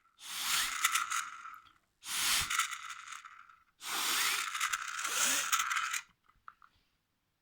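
Breath blown in three long puffs through a small Lego turbine engine model, each a rushing hiss with the plastic parts rattling as they spin, then a few faint clicks as it stops.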